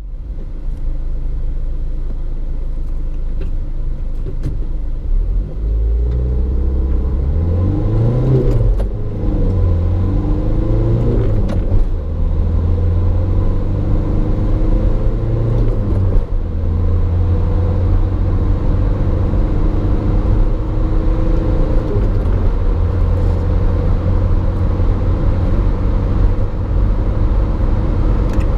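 Renault Trafic's 1.9 dCi turbodiesel engine accelerating hard through the gears: the engine note rises, drops at each of three upshifts in roughly the first sixteen seconds, then pulls on steadily in a high gear with a low rumble.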